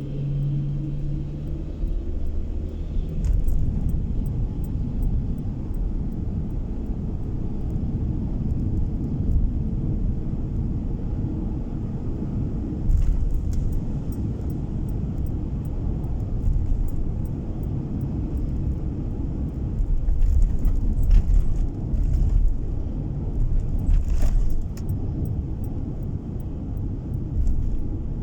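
Steady low road and engine rumble of a car being driven, heard from inside the cabin, with scattered short knocks or clicks, most of them in the second half.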